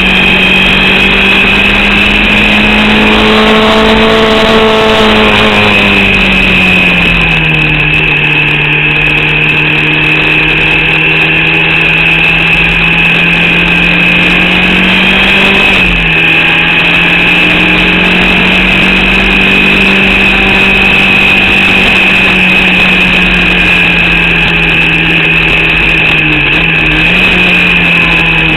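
Onboard sound of a Formula Vauxhall 8-valve racing engine running under load, its note climbing slowly, dropping sharply about six seconds in and dipping briefly twice later, with a steady high whine over it. The engine has a misfire and is short of power from an alternator/battery fault.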